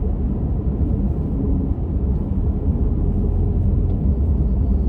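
Steady low rumble of a car driving at road speed, heard from inside the cabin: tyre and road noise.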